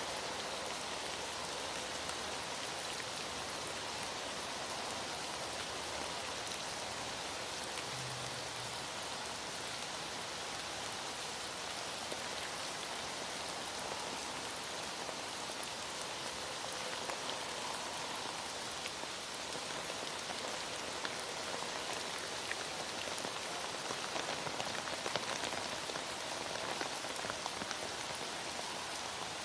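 Heavy rain falling steadily: a dense, even hiss with scattered drop ticks, the ticks a little thicker towards the end.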